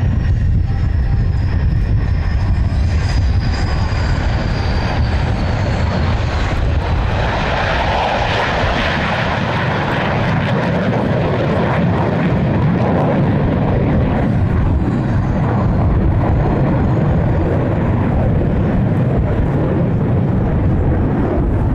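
Airplane flying past at an airshow: a loud engine rumble throughout, with a high whine that falls in pitch over the first six seconds and a rushing swell that peaks about eight seconds in.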